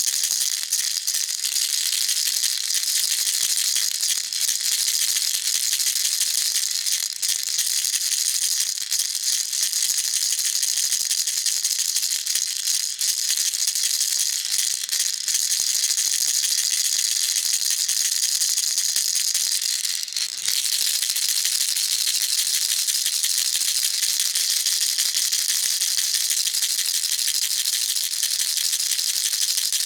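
Baby rattle shaken continuously, its beads making a dense, steady high-pitched rattling with a brief break about two-thirds of the way through.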